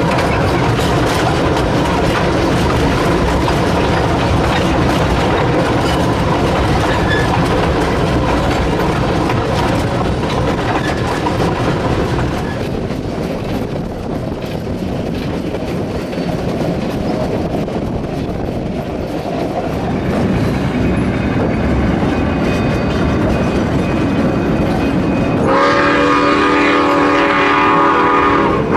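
Narrow-gauge steam train running, with the steady rattle and clatter of the cars on the rails. About 25 seconds in, the locomotive's steam whistle blows one long chord that lasts almost to the end.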